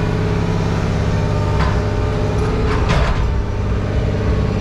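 An engine running steadily at idle, with a brief scrape or clank about one and a half seconds in and a louder clatter near the middle.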